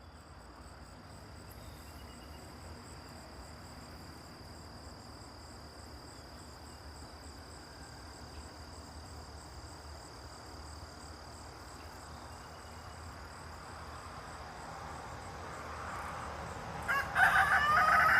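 Faint steady outdoor background with a thin, high, steady whine. About a second before the end, a loud, drawn-out call rings out with a rooster-like shape.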